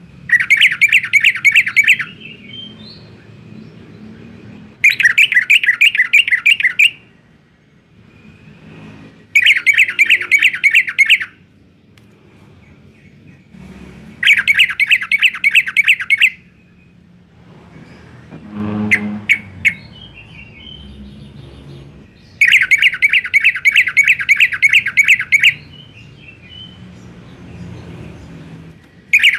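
Yellow-vented bulbul (trucukan) singing hard in repeated phrases. There are about five loud bursts of rapid bubbling notes, each two to three seconds long, with short chirps in the pauses between them.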